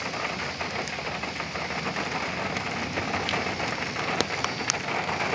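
Heavy thunderstorm rain falling steadily, with a few sharp ticks of drops in the second half.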